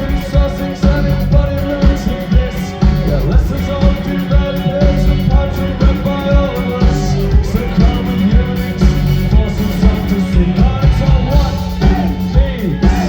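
Live rock band playing loudly: drums keeping a steady beat under bass, guitar and held melodic lines.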